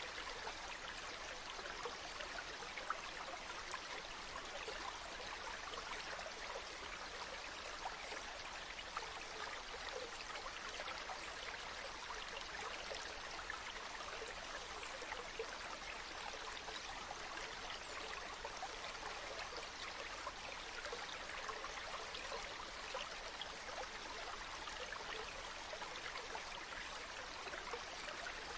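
Water of a stream flowing steadily, an even rush flecked with small trickling splashes.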